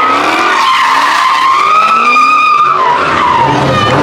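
Car tyres squealing in a long, wavering screech as they spin, with the engine running underneath and getting louder about three seconds in.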